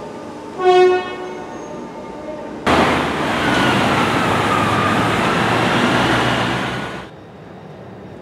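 A short train horn toot about half a second in. From nearly three seconds in, about four seconds of loud train running noise with a whine that dips and rises, which cuts off abruptly.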